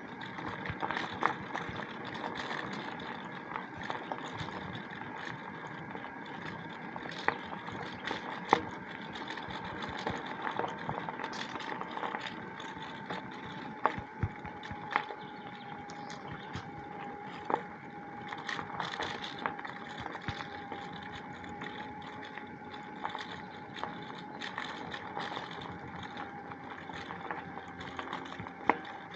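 Bicycle being ridden uphill along a woodland path: steady rolling noise from the tyres and drivetrain with a faint steady whine, and scattered sharp clicks and knocks.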